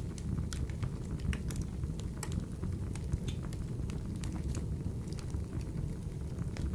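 Wood fire burning in a wood-burning stove: a steady low rumble of flame with frequent small, irregular crackles and pops.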